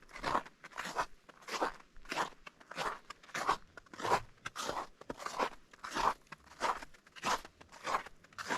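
Footsteps crunching on partially melted, granular spring snow at a steady walking pace, about three steps every two seconds.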